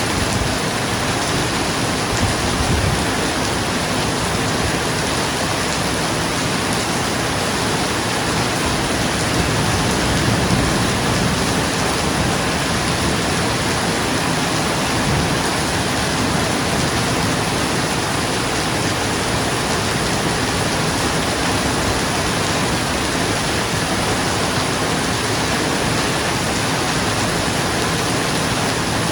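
Steady heavy rain falling on a roof: a dense, even hiss with no single drops standing out.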